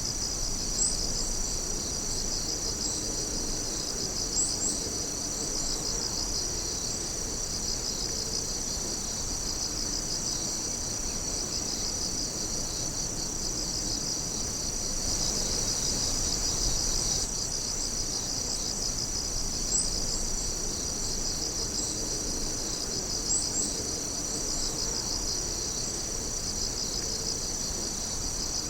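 A dense chorus of crickets and other night insects trilling steadily in a high, pulsing drone, with a few short, sharper chirps standing out now and then.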